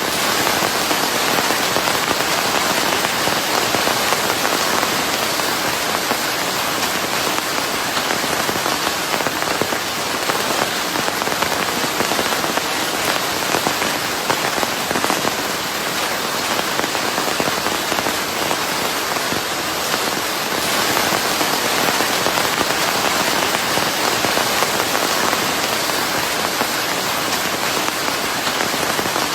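Steady rain: a dense, even hiss of many drops falling on a surface, mixed with white noise.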